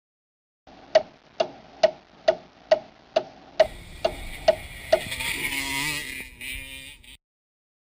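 A run of about ten sharp, evenly spaced ticks, a little over two a second, joined partway through by a hissing rush with a wavering tone that cuts off suddenly near the end.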